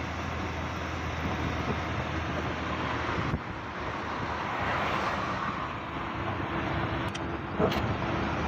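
Steady road and engine noise of a car being driven, with a brief sharp click near the end.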